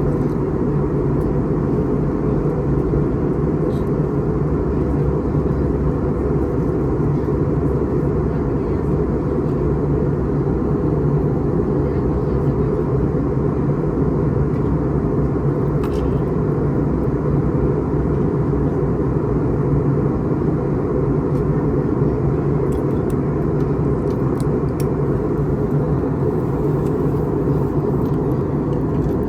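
Steady cabin noise inside an Airbus A321neo in flight: an even rush of engine and airflow noise with a steady low hum underneath. A few faint ticks sit under it.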